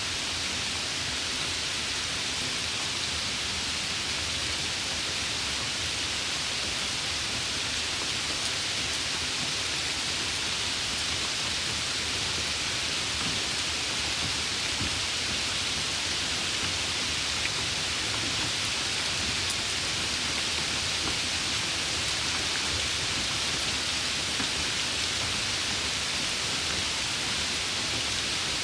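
Steady summer rain falling, an even hiss that holds at one level throughout.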